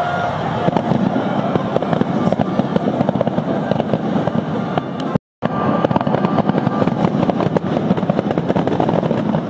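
Fireworks finale barrage: many shells and fountains firing at once in a dense, continuous crackle of rapid bangs. The sound cuts out completely for an instant about five seconds in, a recording fault.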